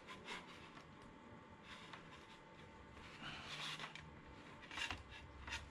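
Faint handling noises: scattered light clicks and a soft rustle of something being moved and fumbled with, a few sharper clicks near the end.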